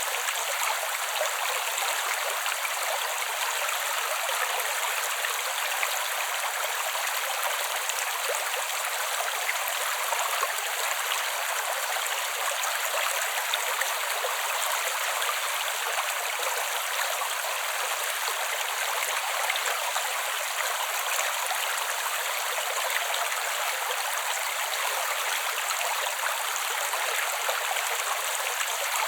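Creek water running steadily over rocks: an even, unbroken rush and trickle with no low rumble.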